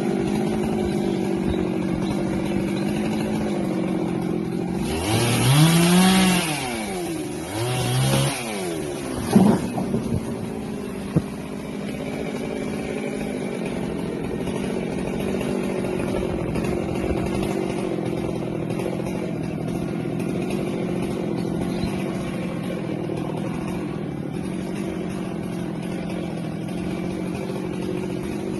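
Husqvarna 390XP two-stroke chainsaw idling, revved up and let back down twice in quick succession a few seconds in, then idling on steadily. A couple of sharp knocks follow the second rev.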